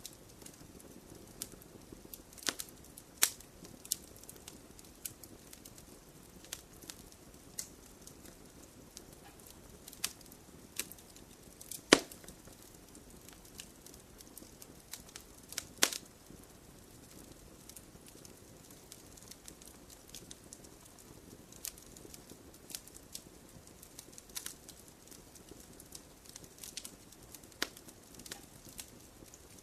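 Wood campfire crackling: irregular sharp pops and snaps over a soft steady hiss of burning, with louder pops about three seconds in, near the middle and about four seconds after that.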